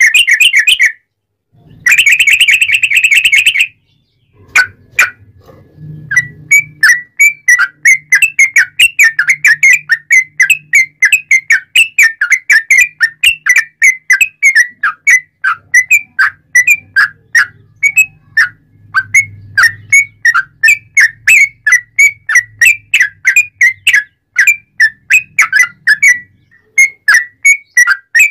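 Sooty-headed bulbul (trucuk) singing loudly: two short, dense phrases, then after a pause a long run of short notes repeated rapidly, about three a second.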